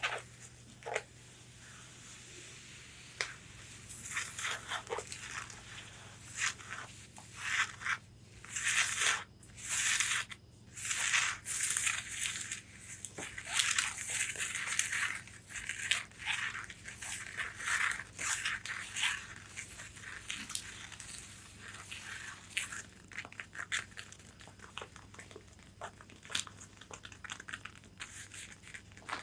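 Long fingernails scratching and tapping on the fabric of a corset: a few scattered taps, then quick scratchy strokes and taps that are busiest through the middle and thin out toward the end.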